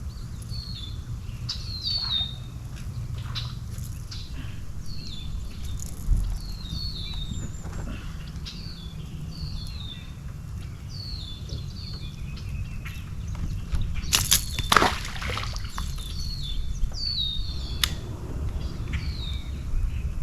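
A songbird calls over and over, short downward-sliding notes about once a second, over a low steady rumble of wind on the microphone. Sharp knocks cluster around two-thirds of the way in.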